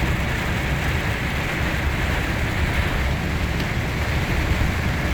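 Steady rumble and hiss of a vehicle driving through heavy rain on a wet road.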